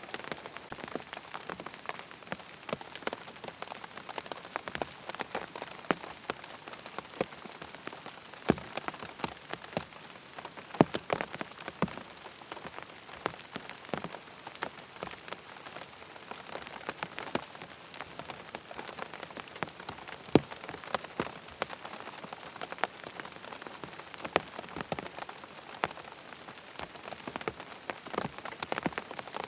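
Steady rain falling, an even hiss with frequent sharp ticks of individual drops.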